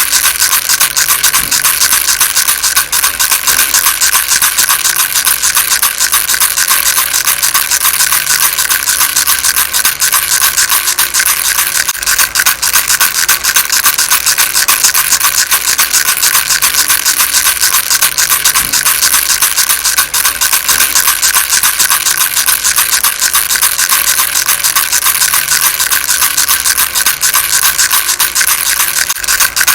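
Baby rattle shaken continuously: a dense, fast, hissy rattle of many small clicks that keeps on steadily without pauses.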